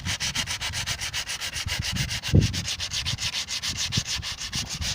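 Coarse 80-grit sandpaper rubbed by hand in quick, even back-and-forth strokes over the steel rain gutter of a 1948 Buick Special, smoothing the rusted metal. There is a dull bump a little over two seconds in.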